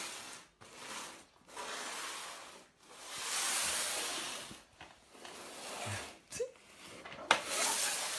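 Repeated breathy hissing from an animal: several long, airy breaths, each a second or two long with short pauses between.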